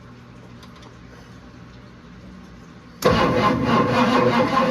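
A 1963 Ford Thunderbird V8 turning over on its starter, jumped at the solenoid, starting suddenly about three seconds in. It cranks without firing because there is no fuel in the car, the engine newly freed after being seized.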